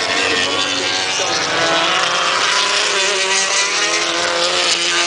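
Several racing motorcycle engines at high revs, their overlapping pitches rising and falling as the bikes pass.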